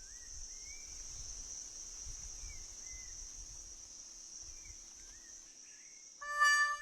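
Steady high-pitched chorus of insects in a tropical forest, with a bird's short slurred whistles every second or two. Music comes in near the end.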